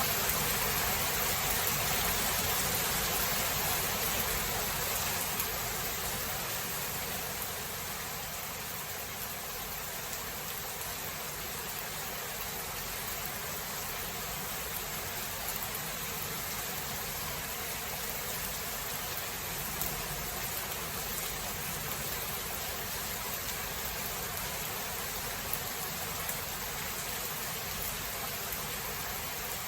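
Steady hiss of heavy rain from a thunderstorm, a little louder at first and settling to an even level after several seconds.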